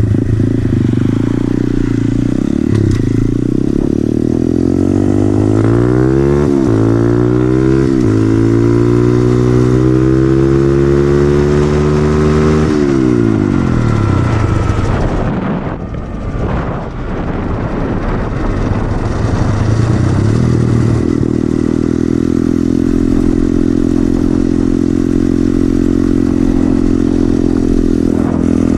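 SSR 110cc pit bike's single-cylinder four-stroke engine with an FMF exhaust, pulled wide open: the pitch climbs, drops briefly at gear shifts about six and eight seconds in, and keeps rising to its top speed. Just before halfway the throttle closes and the engine note falls away, then later holds a steady note.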